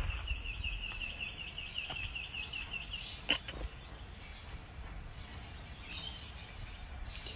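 A small bird twittering a rapid series of short high chirps, about five a second, that stops about three seconds in. A single sharp click follows, over a low steady rumble.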